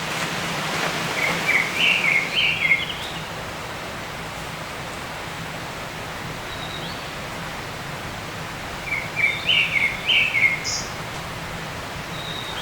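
A songbird singing the same short warbled phrase twice, about a second in and again near nine seconds, over a steady rushing hiss of outdoor background noise.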